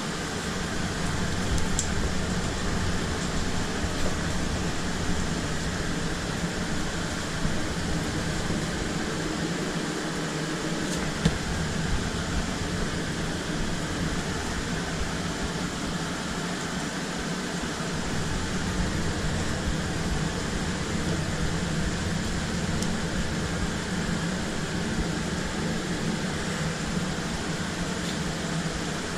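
Steady mechanical hum of machinery running in a food truck kitchen, fan-like and unchanging, with a few faint knocks, the clearest about eleven seconds in.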